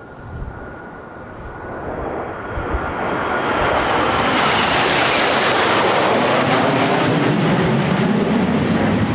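Jet noise from Kawasaki T-4 aircraft passing: a turbofan rush that swells over several seconds, peaks brightest about halfway through, and stays loud to the end.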